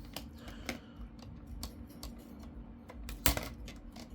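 Scattered small clicks and taps of laptop parts and a tool being handled and pried at, with one louder knock about three seconds in.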